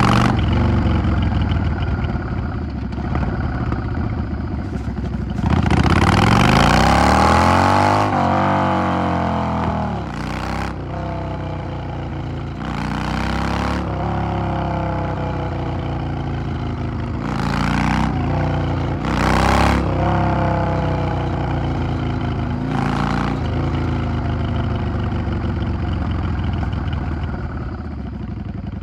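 Yamaha XVS 650's air-cooled V-twin heard from the rider's seat, running through the gears: about five seconds in it opens up and rises in pitch, then falls away, followed by several shorter rises and falls in engine speed.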